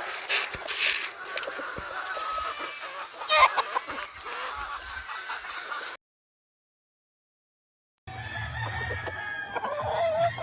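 Gamefowl roosters crowing and clucking, with the loudest crows near the start and about three and a half seconds in. The sound cuts out completely for about two seconds past the middle, then the calls return.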